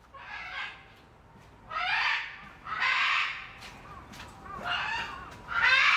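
A bird calling outdoors, five separate calls roughly a second apart, each lasting under a second.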